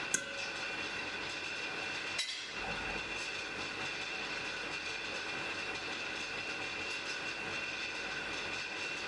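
Blacksmith's forge fire burning with a steady rushing sound and a faint steady whine, with a sharp crackle right at the start and another about two seconds in.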